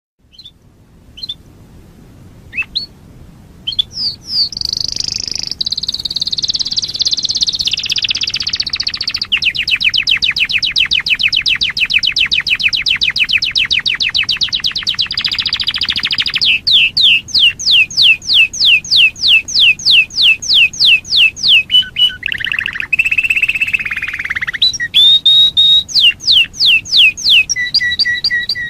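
Domestic canary singing a long, loud song. It opens with a few scattered chirps, then runs into a rolling phrase, a very fast trill, and slower runs of repeated sweeping notes at about three or four a second.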